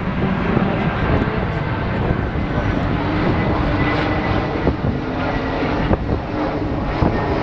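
Racing car engines running, a steady loud engine noise with pitched engine tones shifting up and down.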